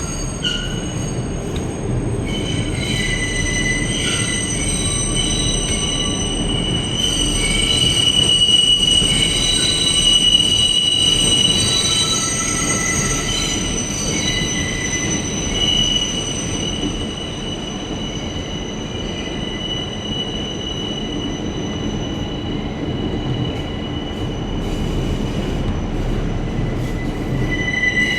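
R160B subway car running through a tunnel: steady rumble of the wheels on the rails with high-pitched wheel squeal from the steel wheels against the rail, several steady whistling tones at once, louder in the middle and again near the end.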